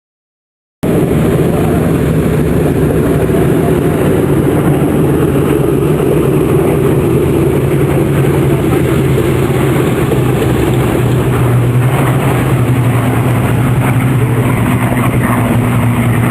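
Aircraft engine running steadily at an airfield, a loud, even drone that cuts in about a second in, with a second, higher tone joining near the end.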